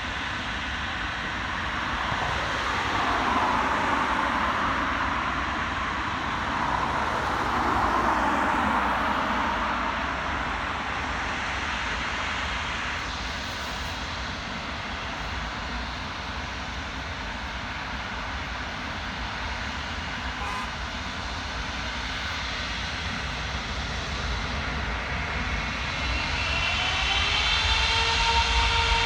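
Airliner jet engines running, a rushing noise that swells and fades as the aircraft passes. Near the end a high engine whine rises in pitch.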